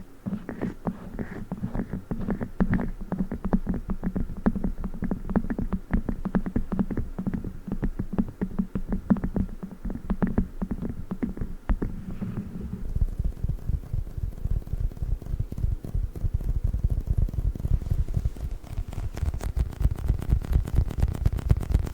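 Fast, dense ASMR tapping on a chocolate book toy. About thirteen seconds in, this gives way to squeezing of a squishy dinosaur toy, with low, rapid squelching thuds.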